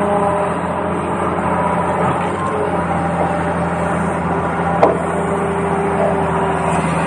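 Small electric motors of a remote-control toy excavator running steadily with a whine, and a single sharp click about five seconds in.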